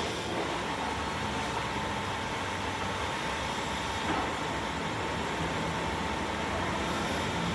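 A workshop machine's electric motor running steadily with a constant whine that sets in about half a second in.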